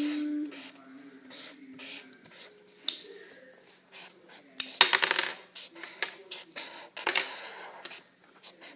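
Felt-tip marker drawing on paper on a tabletop: a run of taps and short scratchy strokes, with a dense stretch of scratching about five seconds in and another sharp stroke a couple of seconds later.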